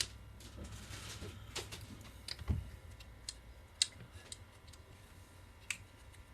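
Scattered light clicks and taps, about eight in six seconds, from small parts and tools being handled on a chainsaw, over a faint low hum.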